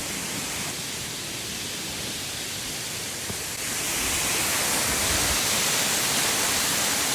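Steady rushing of the 45-foot Royalston Falls waterfall, an even hiss of falling water that grows louder about halfway through.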